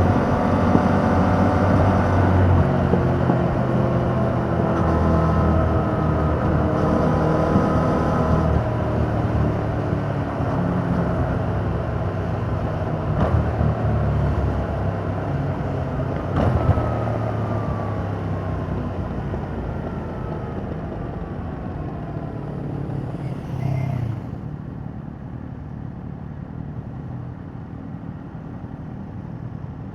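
2021 Yamaha MT-07's parallel-twin engine through its stock exhaust, running under way with changes in engine speed. Over the second half it slows off the throttle, the pitch sliding down and the sound growing quieter, and it is softer over the last several seconds.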